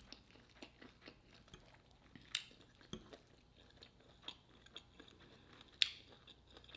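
Close-miked chewing of a shrimp, sausage and cabbage stir fry: soft, wet mouth sounds with scattered small clicks and a few sharper ones, the loudest about two and a half and six seconds in.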